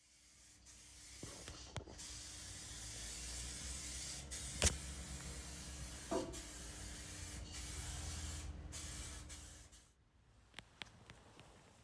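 Paint being sprayed: a steady hiss of spray for about ten seconds, with a few clicks and one sharp knock midway, cutting off near the end.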